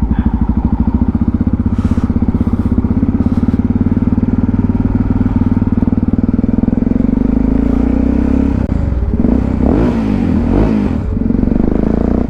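Motorcycle engine running at low speed with a steady, fast pulsing beat, heard from the rider's helmet microphone. About nine seconds in, the revs rise and fall a couple of times before settling back.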